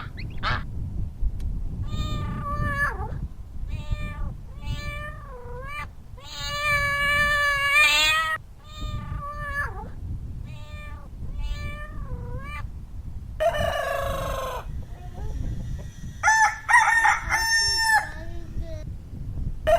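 A series of pitched animal calls, mostly short calls with a dip in pitch and one longer held call, over a steady low background.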